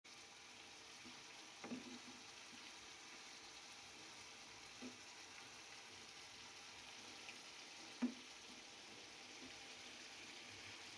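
Chicken pieces in masala sizzling faintly in a pan while a wooden spatula stirs them, with a few short knocks of the spatula against the pan, the loudest about eight seconds in.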